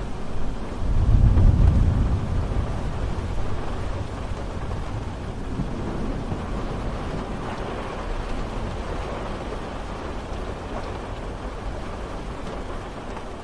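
Steady rain falling, with a deep roll of thunder that builds about a second in and slowly fades away under the rain.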